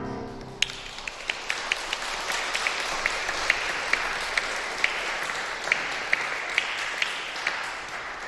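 Audience applauding as the piano's final chord dies away. The clapping starts about half a second in, with single sharp claps standing out of the steady patter, and thins out near the end.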